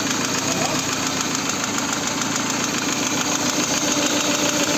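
Lada (VAZ) 16-valve four-cylinder engine running hot with a steady, rapid knock. The owner reports low hot oil pressure (0.9 at idle) and a knock that persists after new camshafts, oil pump, bearing shells and hydraulic lifters.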